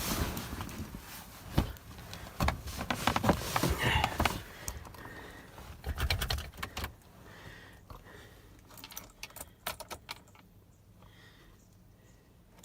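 Ignition keys jangling and being handled, with scattered clicks and knocks and no engine running; the handling dies down near the end.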